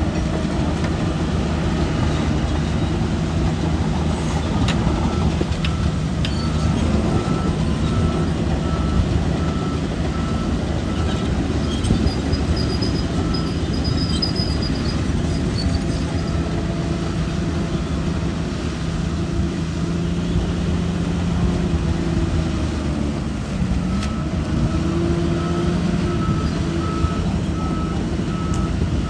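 Shantui DH17 bulldozer's diesel engine running steadily at working revs, with its reversing alarm beeping about twice a second for several seconds, and again near the end.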